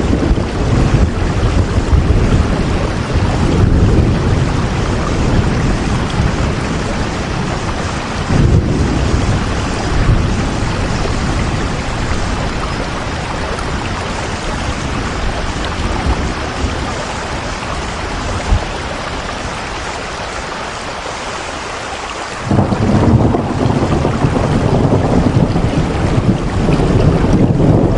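Steady heavy rain with a deep rumble underneath. The rumble thins out for a few seconds and returns abruptly about 22 seconds in.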